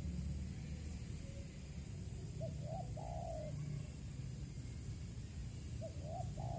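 Spotted dove (tekukur) cooing: two call phrases, each a couple of short notes and then a longer falling coo, about 2.4 s in and near the end. A steady low rumble runs underneath.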